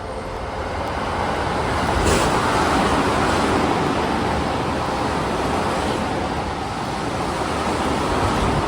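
Toyo Rapid 2000 series and Tokyo Metro 15000 series electric commuter trains passing each other through the station without stopping: a steady rush of wheels on rails that builds over the first two seconds and then holds, with a sharp knock about two seconds in.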